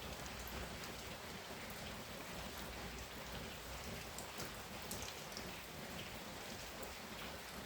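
Heavy rain falling steadily, a constant hiss of rain with scattered individual drops ticking through it.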